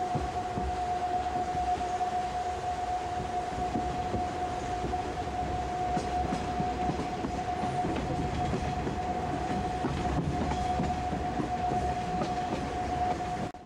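Interior running noise of a JR 185 series electric train moving along the track, with a steady whine held at one pitch over the rumble. The sound cuts off abruptly at the very end.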